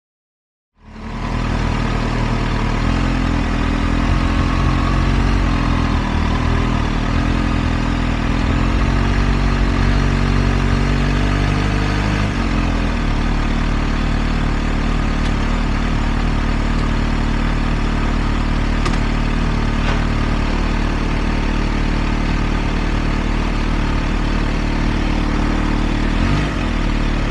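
Kawasaki H2 SX supercharged inline-four motorcycle engine running at low speed, then settling to a steady idle about twelve seconds in. It starts about a second in, after a moment of silence.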